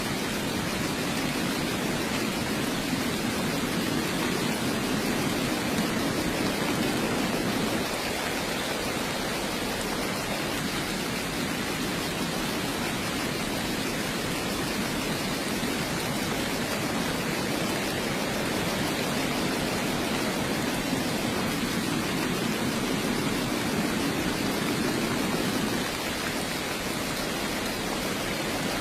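Heavy rain falling as a steady, dense hiss. A deeper, slightly louder layer sits under it for the first several seconds, returns later, and drops away suddenly near the end.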